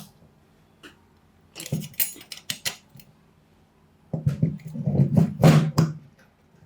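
Metal parts clinking and knocking as they are handled on a workbench: a few single clicks, a quick run of sharp clinks about two seconds in, then a longer stretch of clattering and knocks from about four seconds in.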